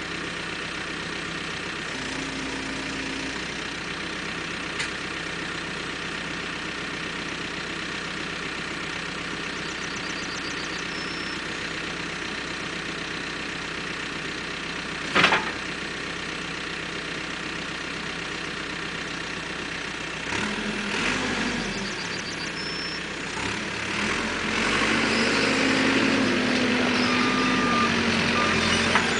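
Caterpillar 432E backhoe loader's diesel engine idling steadily, with one sharp clunk about halfway. In the last third the engine picks up and gets louder, and the reversing alarm starts beeping near the end.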